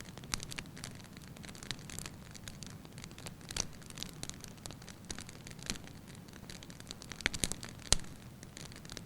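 Wood fire burning in a fireplace: a soft steady hiss with irregular sharp crackles and pops. The loudest pops come near the end.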